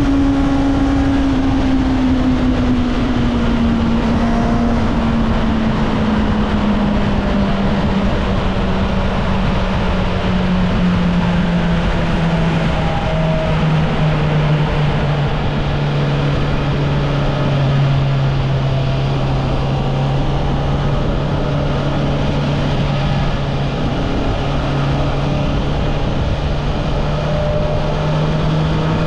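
Honda CB650R's inline-four engine with its stock exhaust, running under way. Its note sinks smoothly as the revs fall over the first half, holds steady, then rises a little near the end, over a steady rush of wind and road noise.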